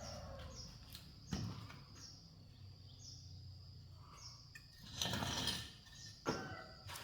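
A small bird chirping repeatedly, short falling high notes about twice a second, over a faint low hum, with a sharp knock about a second in, a brief scraping rustle near the middle and another knock near the end.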